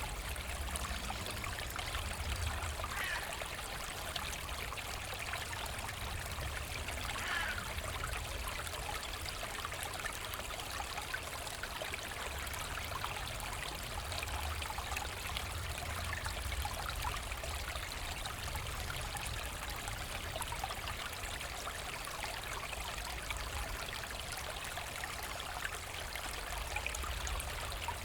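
Small forest brook running and trickling steadily, with a low rumble underneath.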